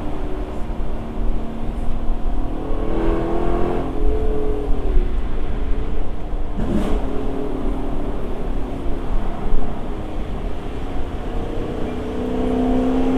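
Lexus LC500's 5.0-litre V8 running, its revs rising about three seconds in, falling back, with a brief sharp blip around the middle and climbing again near the end.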